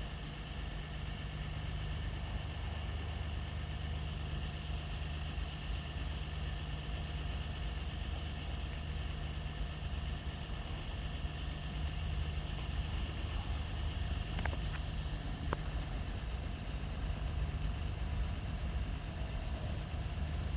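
Diesel locomotive engine idling steadily with a low hum, with a few sharp clicks about two-thirds of the way in.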